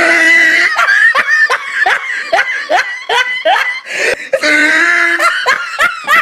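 People laughing hard in a rapid run of short bursts, with a couple of longer drawn-out laughs.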